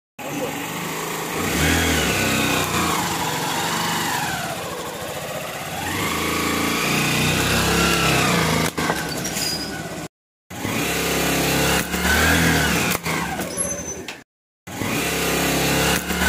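Motorcycle engine revving up and falling back several times, with a few sharp clicks between revs; the sound cuts out twice briefly.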